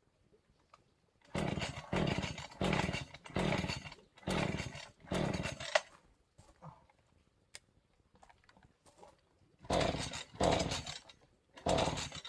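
Hand saw cutting in back-and-forth strokes, a run of six quick strokes, then a pause, then two short pairs near the end.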